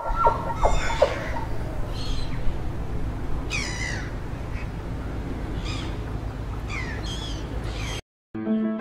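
Wild birds calling and singing over a steady low rumble: a quick run of short, harsh calls in the first second, then scattered higher sweeping songs. The sound cuts off suddenly shortly before the end, and piano music starts.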